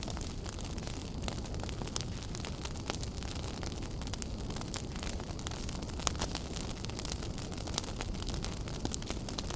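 Wood fire in a fireplace crackling: a steady low rumble and hiss of burning, with many sharp pops and snaps at irregular intervals.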